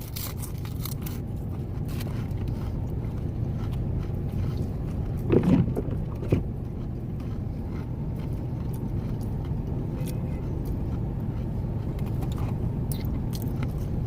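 Steady low rumble of a vehicle idling, heard from inside the cab, with one brief louder sound about five and a half seconds in.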